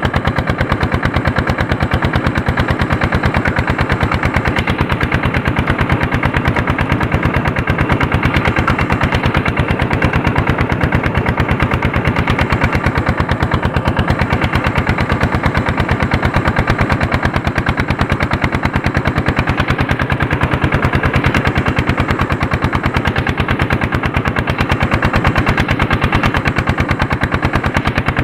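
Andoria diesel tractor engine running steadily under load while pulling a harrow, with a rapid, even beat of sharp exhaust pulses.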